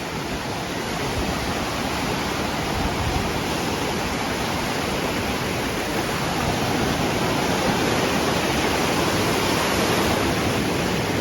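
Surf washing up a sand beach: a steady hiss of small waves, swelling a little over the second half.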